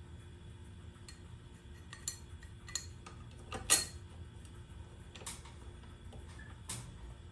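Metal hardware being handled, giving scattered sharp metallic clinks and knocks, about five in all with the loudest about halfway through, over a low steady hum.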